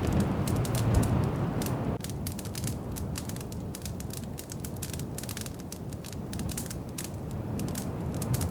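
Wood fire crackling in a fireplace: many small, irregular pops and snaps over a low, steady rumble of the flames. The rumble drops a little about two seconds in.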